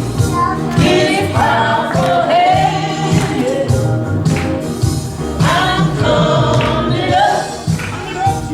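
Gospel music: several voices singing together as a choir over instrumental backing with percussion.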